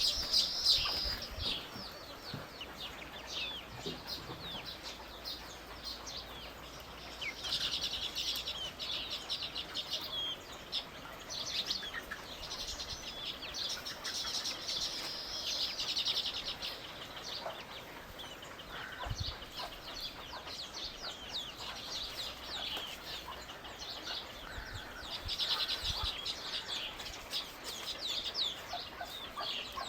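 Small birds chirping: bouts of rapid, high-pitched chatter lasting a few seconds each, with quieter scattered chirps between them.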